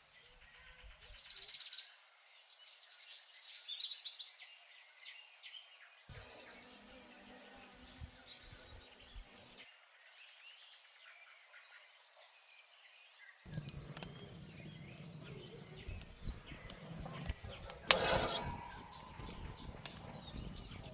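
Birds chirping, with two louder bursts of rapid chirps in the first few seconds and quieter chirping after. A single sharp knock sounds near the end.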